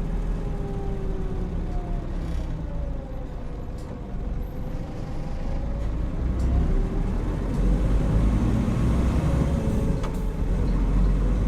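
Hino Rainbow HR route bus running, heard from inside the cabin. The engine note falls over the first few seconds, then rises steadily as the bus speeds up again.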